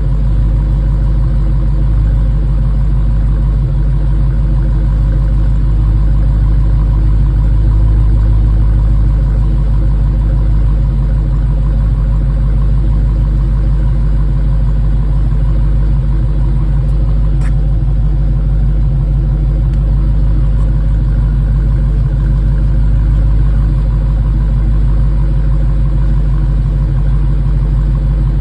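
2021 Dodge Challenger's engine idling steadily after a cold start.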